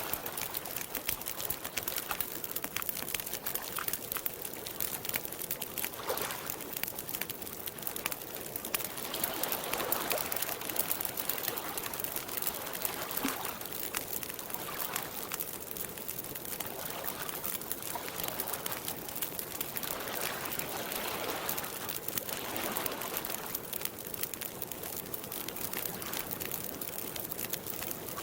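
Campfire crackling steadily, with small waves lapping softly at the lakeshore in gentle swells every few seconds.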